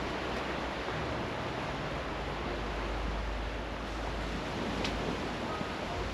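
Steady wash of sea surf with wind rumbling on the microphone, and a single sharp click about five seconds in.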